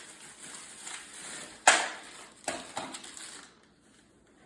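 Handling noise from ceiling fan parts: one sharp click about halfway through, two lighter knocks soon after, and faint rustling, dying away near the end.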